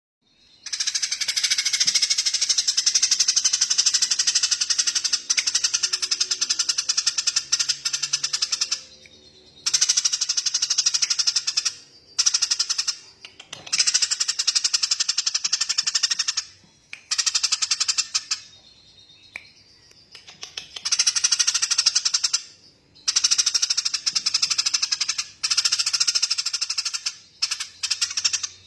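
A small songbird's rapid rattling trill, given in long bursts with short pauses between: the first runs about eight seconds, then shorter runs of one to three seconds follow.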